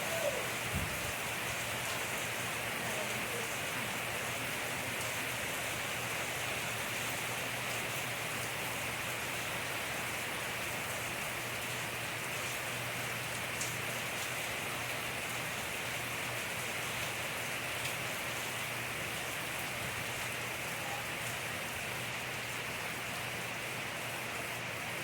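Steady rain falling: an even, constant hiss with a few faint clicks.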